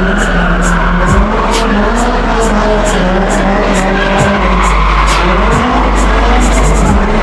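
Car doing a burnout: the engine is held at steady high revs while the tyres spin and squeal on the pavement.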